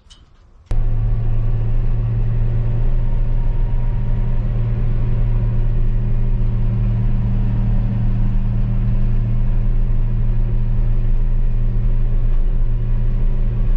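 Tractor engine running steadily at a constant speed, loud and even, cutting in abruptly under a second in.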